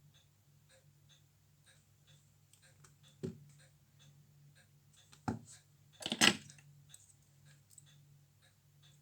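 Small sharp metal clicks and taps of tools and parts on a watch being worked on: one about a third of the way in, another just past halfway, and a louder double click soon after. Faint light ticking and a low steady hum run underneath.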